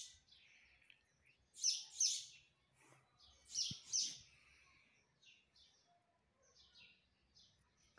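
A small bird chirping in quick pairs of short, high chirps, the loudest pairs near 2 and 4 seconds in, then fainter scattered chirps.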